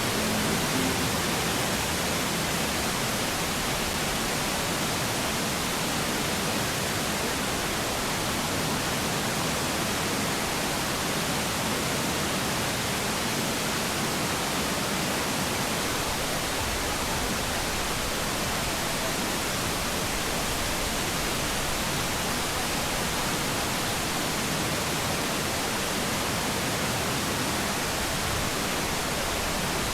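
Waterfall heard close up: a steady, even rush of falling water that never lets up. A faint tail of music fades out about a second in.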